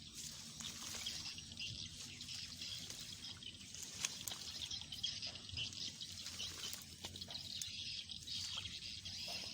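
Outdoor ambience: a steady high hiss with scattered light crackles and rustles, and one sharper tick about four seconds in.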